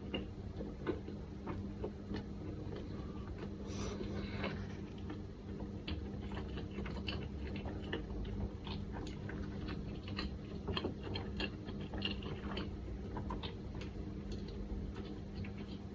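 Close-up chewing of an onigiri of rice with pickled plum and tororo kelp: many small, irregular wet clicks and crunches over a low steady hum, with a brief louder noise about four seconds in.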